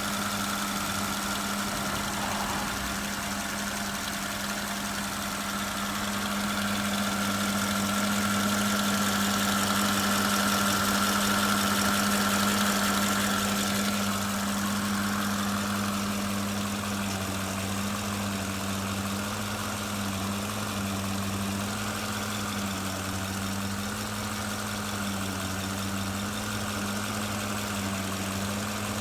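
2008 Porsche Cayenne Turbo's 4.8 V8 idling with a steady low hum, which the owner suspects comes from the power steering pump. A fainter higher whine fades out about halfway through.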